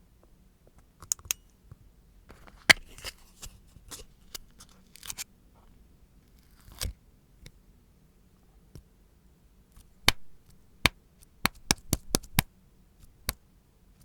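Scattered sharp clicks and taps from nail tools and small items being handled during a manicure, with short scratchy rustles a few seconds in. A quick run of clicks comes near the end.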